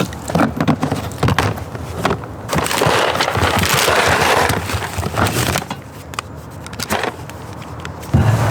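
Knocks and clatter of things being handled, with about three seconds of rubbing in the middle as a rag scrubs a hard surface clean with rubbing alcohol.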